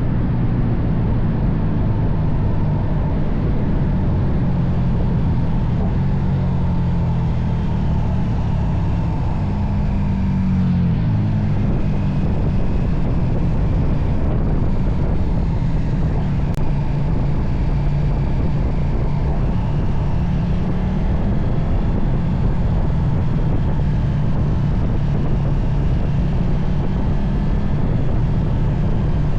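KTM Super Duke V-twin motorcycle engine running at fairly steady revs, its pitch wavering slightly and rising a little about a third of the way in.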